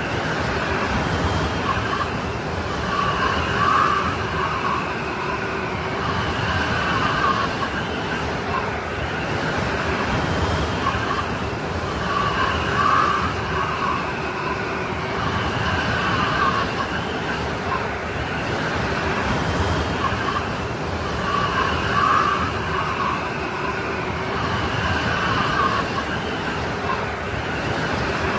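Strong blizzard wind blowing steadily, with high whistling, howling tones that swell and fade about every nine seconds.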